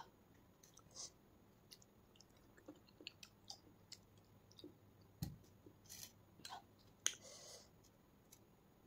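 Faint mouth sounds of someone eating rice and curry by hand: scattered wet clicks and lip smacks of chewing, the sharpest about seven seconds in.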